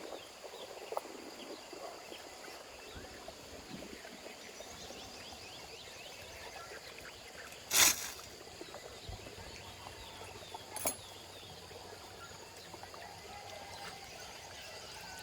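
Outdoor ambience of many small birds chirping over a steady high insect buzz, broken by a sharp loud click about 8 seconds in and a smaller one about 3 seconds later.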